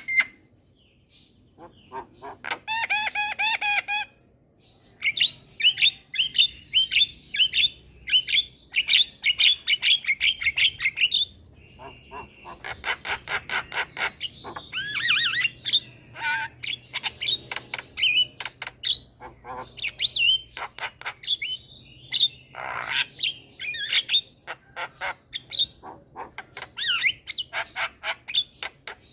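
Javan myna singing a long, varied song of whistled notes, harsh squawks and rapid clicking chatter. The song comes in quick phrases with short breaks.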